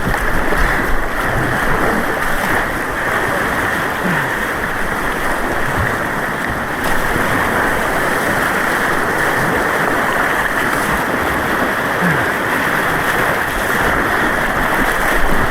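Steady rushing of turbulent white water on an artificial white-water course.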